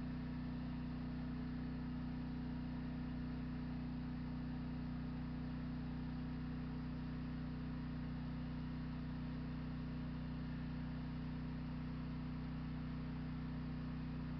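Steady, unchanging low hum with a couple of fixed tones, like a motor or engine running at constant speed.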